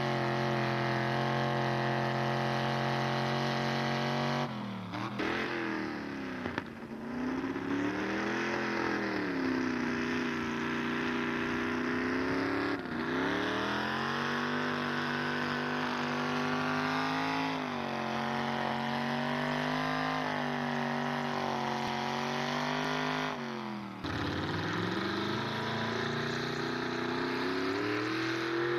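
A pulling truck's engine running hard at high revs under load, its pitch wavering as it works. It bogs down sharply about four seconds in and again near the end, each time climbing back up in pitch.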